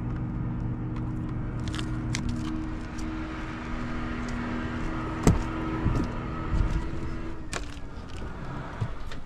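A vehicle engine running steadily, with a low hum of a few fixed tones that fades out about seven and a half seconds in. Two sharp knocks sound about five seconds in and again as the hum fades.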